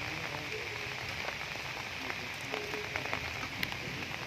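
Steady rain falling, with scattered sharp ticks of individual drops striking nearby surfaces.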